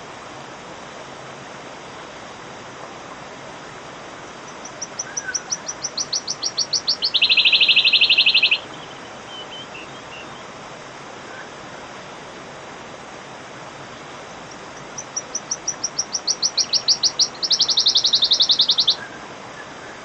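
Wood warbler singing twice: each song is a run of high, ticking notes that speed up and run into a loud, fast shivering trill. A steady hiss lies underneath.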